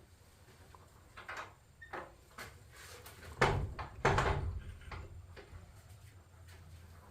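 A series of knocks and clatters from things being handled, with two louder thuds about three and a half and four seconds in.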